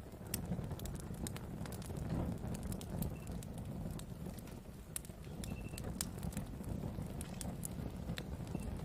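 Wood fire burning with a steady low rumble and irregular sharp crackles and pops, with a few brief faint high whistles.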